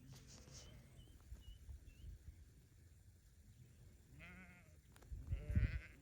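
Sheep bleating: two wavering bleats, the second one louder, near the end.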